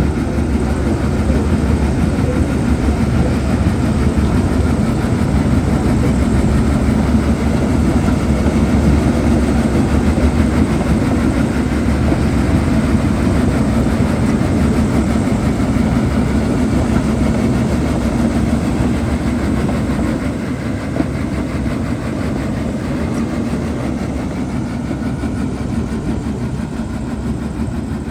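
Shantui DH17C2 bulldozer's diesel engine running steadily, easing slightly in level about two-thirds of the way through.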